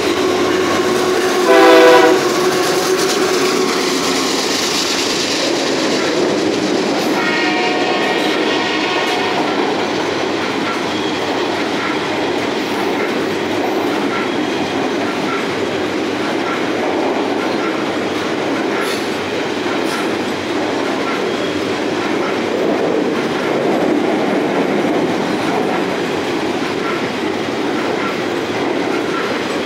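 Freight train crossing a steel girder bridge overhead: a steady rumble and rattle of the cars, with faint regular clicks from the wheels. Its air horn sounds loudly about two seconds in, and a second, fainter and higher tone follows around eight seconds.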